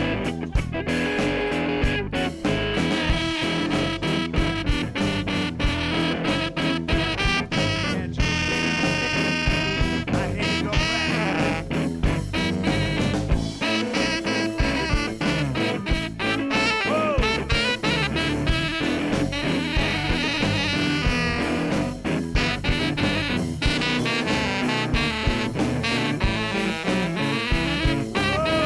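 Instrumental break of a blues song: the band plays on with a steady beat and no singing.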